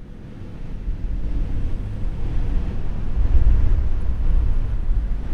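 A deep, noisy swell with no clear notes, growing louder as an ambient music track opens.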